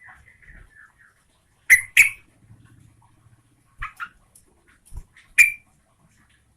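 Sooty-headed bulbul calling: soft chatter, then loud, short, sharp notes in pairs and singles, the last and loudest a little after five seconds in.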